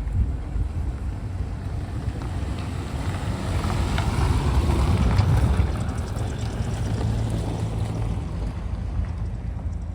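A car's engine rumbling as it drives past, swelling to its loudest about halfway through and then fading, with wind buffeting the microphone.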